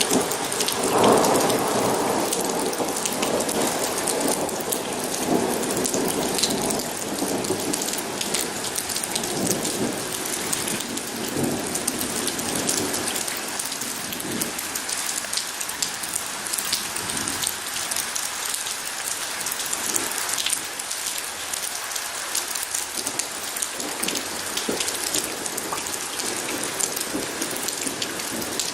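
Steady heavy rain falling and pattering on surfaces, with a rumble of thunder in the first couple of seconds that fades into the rain.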